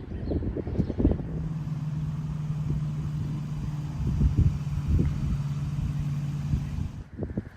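Diesel locomotive running past, a steady engine hum with repeated wheel knocks over the rails; the hum stops abruptly near the end.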